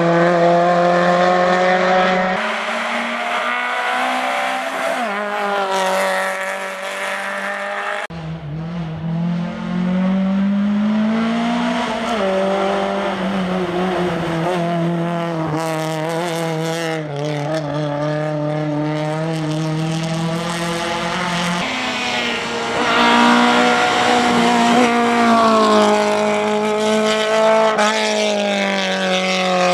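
Skoda Favorit rally car's four-cylinder engine driven hard on a rally stage, its revs repeatedly climbing and dropping through gear changes. The sound changes abruptly about two and eight seconds in.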